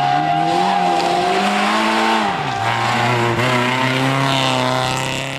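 Racing car engine under load, its pitch climbing and then dropping sharply about two and a half seconds in as it lifts off or changes gear, then running steadily and starting to fade near the end.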